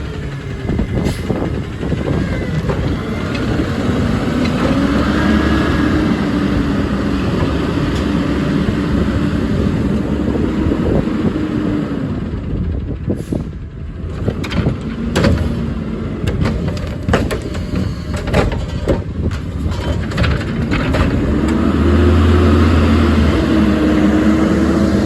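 Peterbilt 520 garbage truck with a Curotto Can arm working a pickup: the engine revs up and holds to drive the hydraulics, then a run of sharp bangs and clanks as a cart is tipped and handled, and the engine revs up again near the end.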